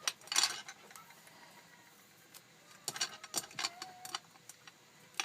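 Washi tape and copper wire being handled as the tape is wrapped around a small wire figure: short crisp rustles and clicks, once about half a second in and again in a cluster around three to four seconds in.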